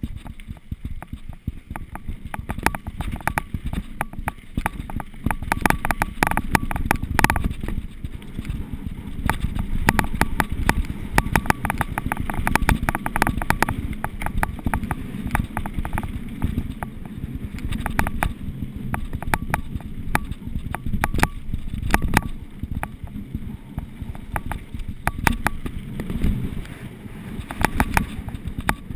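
Mountain bike rolling over rough ground: a continuous rumble of tyres and frame, with frequent sharp clicks and rattles from the bike.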